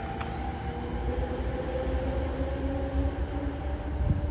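NJ Transit locomotive-hauled passenger train some way off: a low rumble with a faint whine that rises slowly in pitch. Faint regular insect chirping sits high above it.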